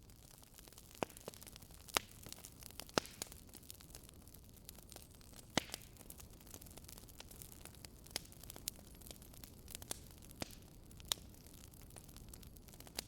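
Wood fire crackling in a fireplace: irregular sharp pops and snaps over a faint low hiss, with the loudest pops about two, three and five and a half seconds in.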